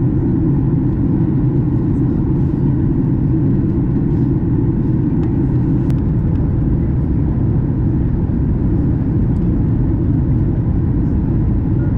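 Steady in-flight cabin noise of a Boeing 737 MAX 8 on descent: an even, loud low rumble of engines and airflow around the fuselage that does not change.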